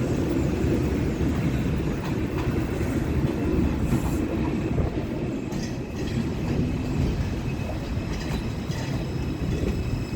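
New York City subway train of R142/R142A cars running along elevated track: a steady, loud rumble with wheels clacking over rail joints and a faint high wheel squeal in the second half.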